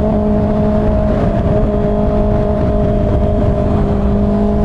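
Kawasaki ZX-6R's inline-four engine running at a steady cruise on the move, holding one pitch that creeps slightly higher near the end, over a low rumble.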